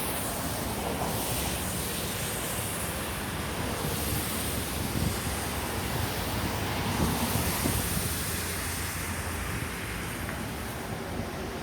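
Boeing 767-300ER on final approach: a steady, distant jet rumble and rush, swelling a little midway, mixed with wind on the microphone.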